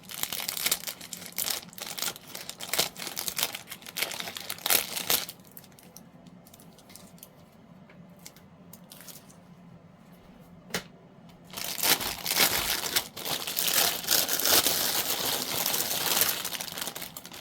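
Plastic bag crinkling and rustling as it is cut open and handled, with sharp crackles for the first few seconds. A quieter stretch with a few single clicks follows, then steady loud rustling in the last few seconds.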